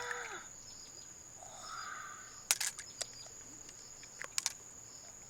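A few sharp clicks and taps of hard objects, with a steady high-pitched whine underneath. A woman's exclamation trails off at the very start.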